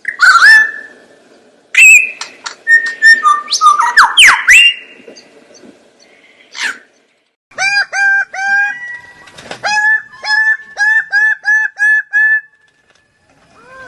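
Bird calls: a string of loud, varied whistles and sharp calls with gliding pitches, then a fast run of about a dozen short, repeated notes that stops about two-thirds of the way through.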